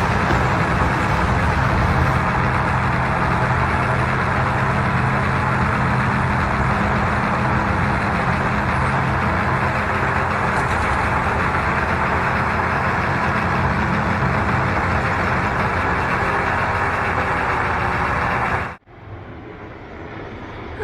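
Excavator's diesel engine running steadily under a loud, dense rushing noise. It cuts off abruptly near the end.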